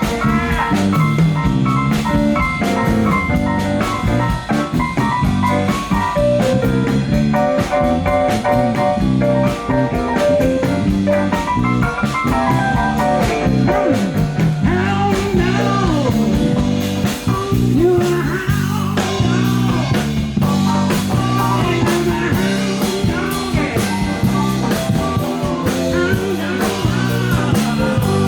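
A live blues-rock band playing loudly, with drum kit, guitar and bass and a singing voice over them.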